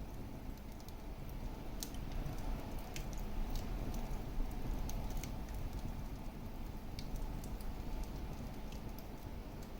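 Wood fire crackling in a fireplace: irregular sharp pops and snaps over a steady low rush of the burning flames.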